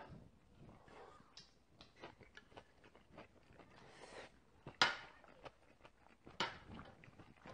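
A person chewing a mouthful of bibimbap close to the microphone, with many small wet mouth clicks and two louder, sharper clicks about five and six and a half seconds in.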